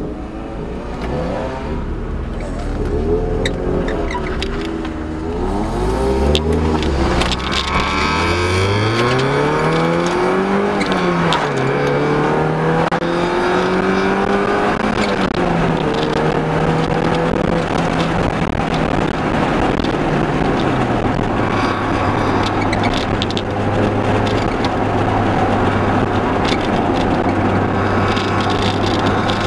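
Car engine pulling up through the gears, its note rising in repeated sweeps and dropping at each shift, then settling to a steady cruise over constant road and wind noise.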